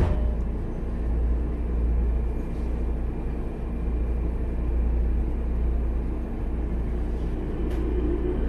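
Interior running noise of a Sotetsu 10000 series train pulling away from a station under Mitsubishi IGBT-VVVF control: a steady low rumble of wheels and traction motors with a faint steady whine. There is a sharp knock right at the start, and the motor hum swells near the end.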